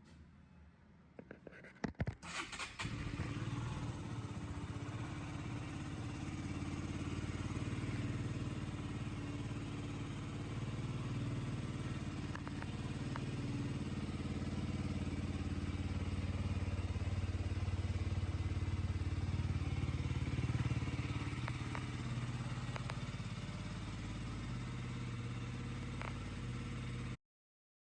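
Husqvarna Svartpilen 125's single-cylinder engine, fitted with a LeoVince aftermarket exhaust, starting about two seconds in after a few sharp clicks and then running steadily. The sound cuts off abruptly near the end.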